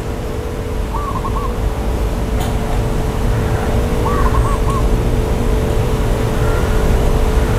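Steady low rumble with a constant hum underneath; a bird calls twice with short warbling notes, about a second in and again about four seconds in.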